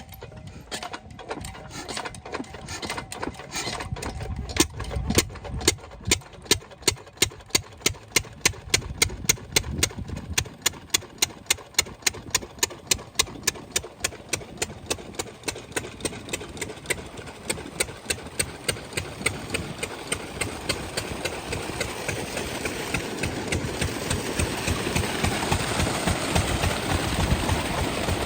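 8 hp diesel engine of a water pump set firing up and running: sharp, even exhaust beats, about four a second, that quicken and merge into a steadier, louder running sound in the second half.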